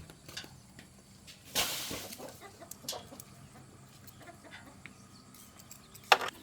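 Chickens clucking, with scattered light clicks and knocks, a brief noisy burst about a second and a half in, and a sharp short sound near the end.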